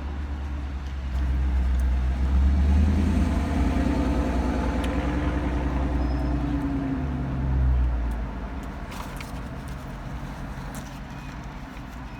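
A car's engine rumbling close by as it moves past. It grows louder about a second in and fades away after about eight seconds.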